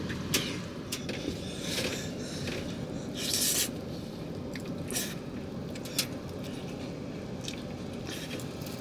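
Short scrapes and clicks of a utensil against a pot as cooked rice, its bottom scorched crisp, is dug out to eat, over a steady low background noise. A longer scrape comes about three seconds in.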